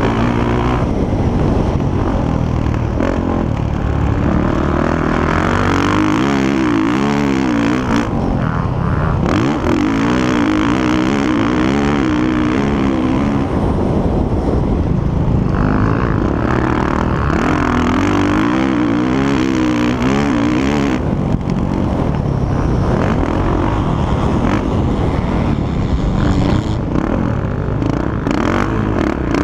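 Motocross motorcycle engines running on the track, throttles opening and closing so the engine note warbles rapidly up and down in stretches, over a constant engine din.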